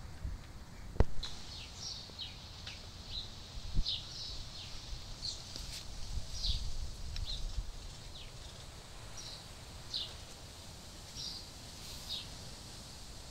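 Small birds chirping: short, high, repeated calls, one or two a second, over a low outdoor rumble. A couple of faint clicks come in the first few seconds.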